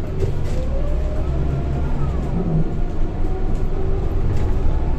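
Scania K230 bus under way, heard from inside: a steady low diesel engine rumble with whining tones from the ZF automatic gearbox and driveline that rise and fall in pitch as the bus gathers and sheds speed.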